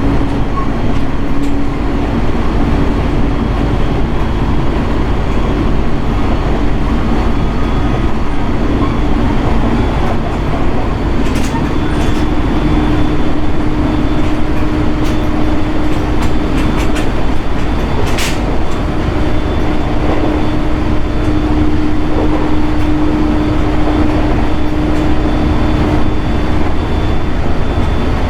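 Inside a JR East 701 series electric train running between stations: steady rumble of wheels on rail with a steady hum, and a few sharp clicks around the middle.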